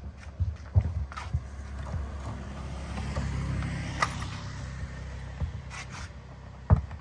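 A low mechanical hum that swells and fades in the middle, with scattered clicks and knocks.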